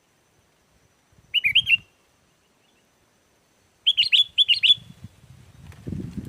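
Sooty-headed bulbul (kutilang) singing: a short bubbly phrase of quick whistled notes, then a pause and two more phrases in quick succession. A low rumble comes in near the end.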